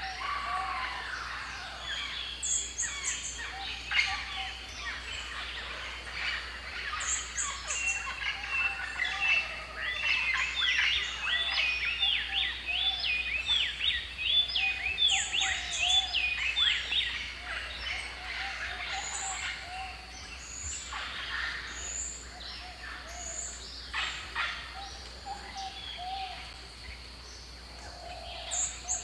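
Several birds calling and singing at once: a dense mix of chirps, whistled notes and high trills, busiest in the middle.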